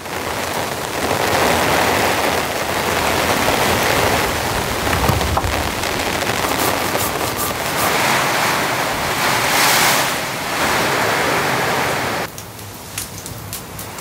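Heavy rain pouring down steadily, swelling and easing in waves. About twelve seconds in it cuts off abruptly to a quieter hiss with sharp, scattered crackles from a wood fire.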